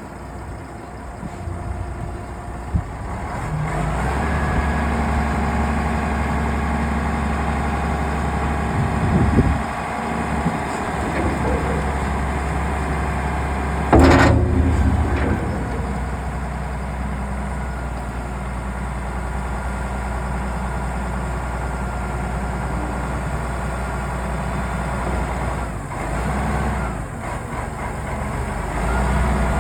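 The engine of a UNC 200 machine running steadily, growing louder about four seconds in, with a sudden loud burst about halfway through.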